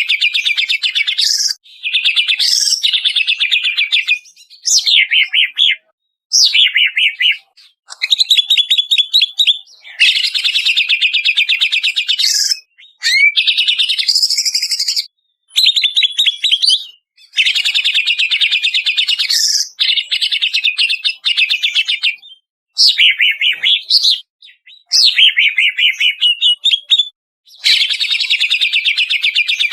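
Greater green leafbird (cucak ijo) song: loud phrases of fast chattering trills and whistled glides, each a second or two long, separated by short breaks of dead silence, as in a spliced training recording for cage birds.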